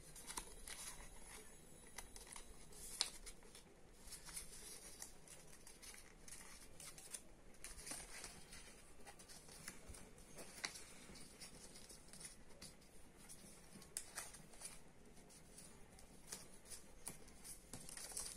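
Faint rustling and crinkling of colour paper being folded and creased by hand, with scattered small clicks.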